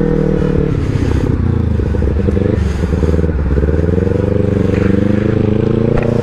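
Motorcycle engine running while riding. The engine note wavers and breaks up between about one and three and a half seconds in, then settles back to a steady pitch.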